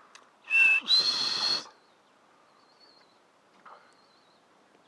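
A bird gives a loud, shrill two-part call near the start, the second part higher and longer. Faint, wavering high calls repeat in the background after it.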